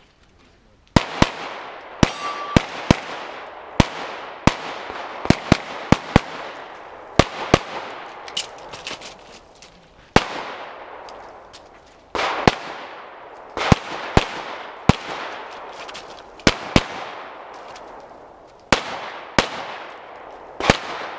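A competition pistol firing a stage string: about two dozen sharp shots, many in quick pairs and short runs, with brief gaps between groups, each shot trailing off in echo.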